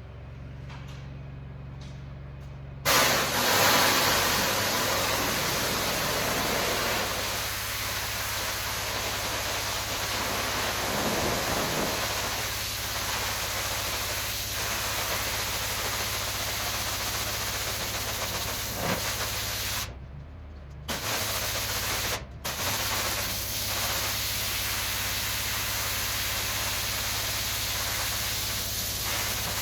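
Pressure washer at work: a low steady machine hum, then about three seconds in the spray opens up into a loud, even hiss of high-pressure water. The spray cuts off briefly twice about two-thirds of the way through as the trigger is let go, while the hum carries on.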